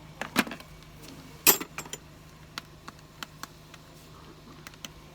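Two sharp metallic clanks, the louder about a second and a half in, followed by lighter clicks and ticks, over a steady low hum.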